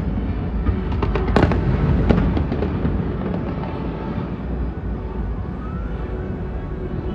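Aerial fireworks bursting: a sharp bang at the start and another about a second and a half in, over a continuous low rumble and crackle of shells that thins out in the second half. A faint rising whistle comes near the end.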